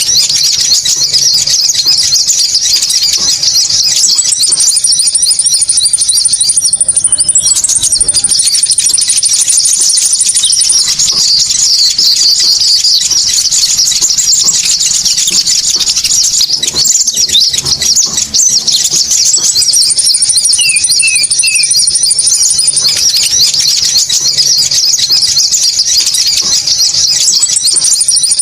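Loud bird-lure recording of Konin calls: a dense, unbroken chatter of high-pitched chirps, with a thinner, higher trill coming and going over it.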